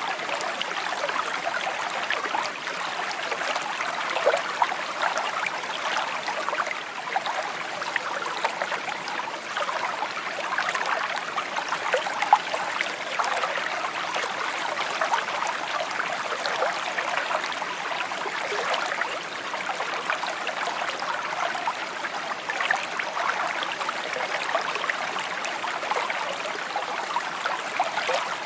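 A small stream babbling and trickling over stones, a steady flow with many small bright splashes.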